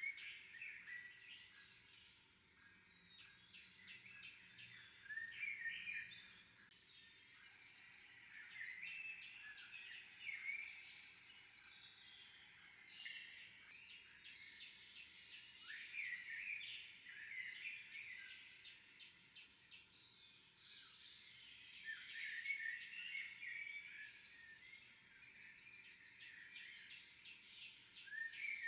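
Small songbirds singing in an overlapping chorus: repeated rapid high trills, with phrases that start very high and step downward, recurring every few seconds.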